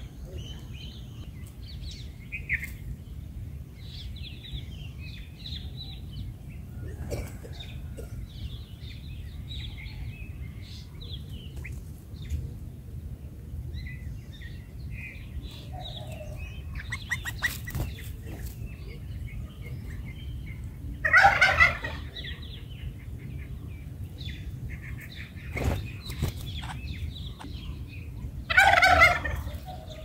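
Birds chirping and twittering in short scattered calls over a low steady hum. Two loud, harsh calls of about a second each break in, one about two-thirds of the way through and one near the end.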